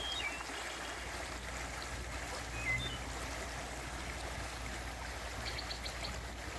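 Small mountain creek running steadily, with a few faint high chirps over it.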